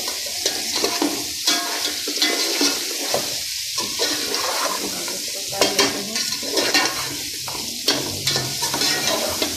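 Chicken pieces frying in oil with the masala in a steel pot, sizzling steadily while a metal spoon stirs them and scrapes and clicks against the pot: the chicken is being browned in the spices before water is added for a chicken pulao.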